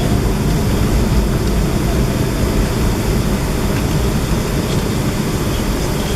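Steady rumble of a jet airliner's engines and airflow heard from inside the passenger cabin.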